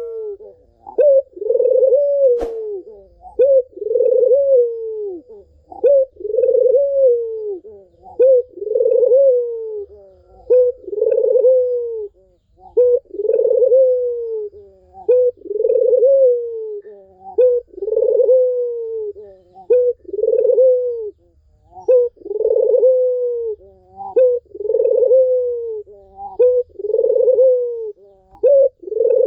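Puter (Barbary dove) cooing over and over, about one call every two seconds. Each call is a short note followed by a longer coo that rises slightly and then falls.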